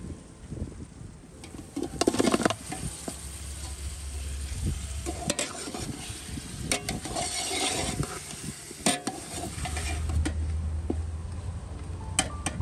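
Chopped onions sizzling in hot oil in a large aluminium pot, with a slotted metal spoon stirring and scraping against the pot and clinking on its rim. About two seconds in there is a louder burst as pieces of cooked goose are tipped into the hot oil.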